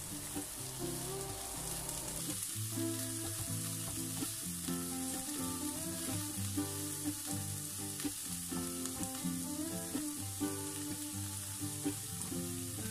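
Diced vegetables sizzling in hot oil in a nonstick frying pan as they are sautéed and stirred with a silicone spatula. Background music with a steady run of notes plays over it.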